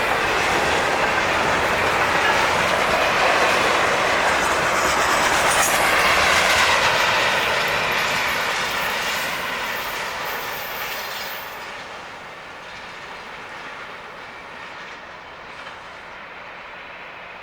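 Double-stack freight cars rolling past, wheels clacking over the rail joints with some squeal. The sound fades steadily in the second half as the train moves off.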